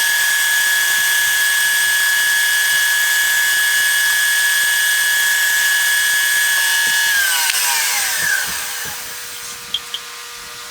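Electric power tool's motor starts and runs at a steady high whine for about seven seconds, then is switched off and winds down in pitch over a couple of seconds.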